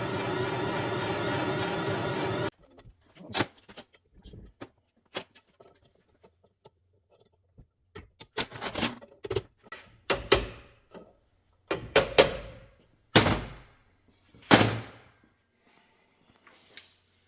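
A steady mechanical hum stops abruptly about two and a half seconds in. After it come scattered sharp clinks and knocks, some with a short metallic ring, as metal engine parts and tools are handled on a bench.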